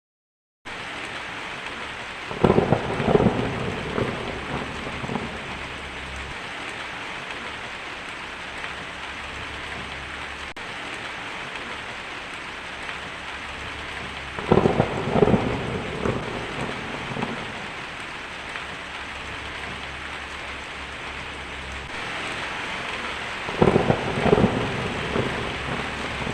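Steady rain falling, with three rolls of thunder about ten seconds apart, each rumbling for a few seconds. The rain starts abruptly just after the opening.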